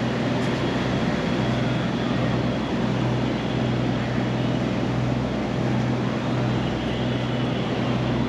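River ferry's engine running steadily under way: a constant low hum with an even hiss of wind and water over it.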